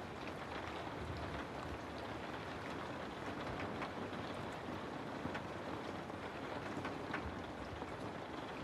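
Steady rain falling on a house: an even hiss with many scattered, sharper drop ticks.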